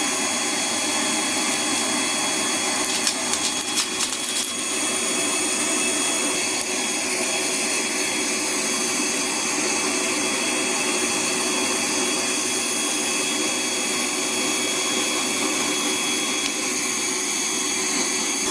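Vacuum cleaner running steadily, with a faint high whine over its rushing noise and a few short clicks about three to four and a half seconds in.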